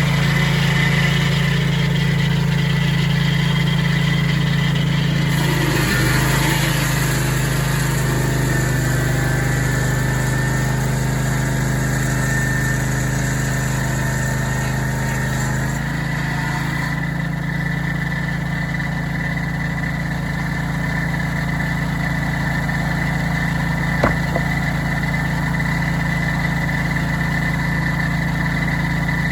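Portable sawmill's engine running steadily, with a higher hiss above it that drops away a little over halfway through. A single sharp click comes near the end.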